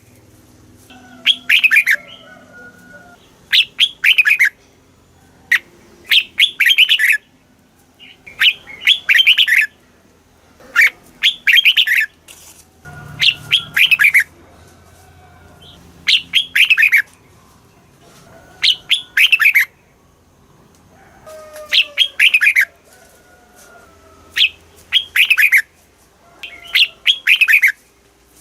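Red-whiskered bulbul singing: short loud phrases of quick, falling whistled notes, repeated about every two and a half seconds, with fainter chirps between them.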